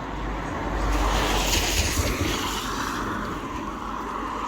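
A car passing on a wet road: tyre hiss and engine rumble swell to a peak about two seconds in, then ease off.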